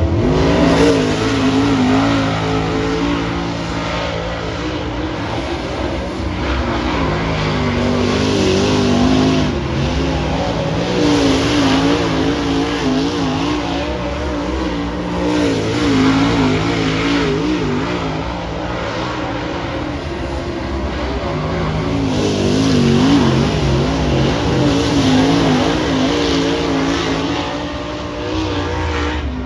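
Dirt track race car engines running at speed, their pitch and loudness rising and falling in repeated swells every few seconds.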